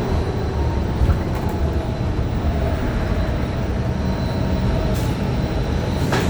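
Interior ride noise of a moving Gillig low-floor bus with a Cummins Westport ISL G CNG engine: steady engine and road rumble with a faint whine, and a brief click near the end.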